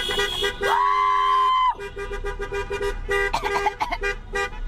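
Several vehicle horns honking together in short, repeated beeps. About a second in, one louder horn slides up in pitch and holds for about a second before cutting off.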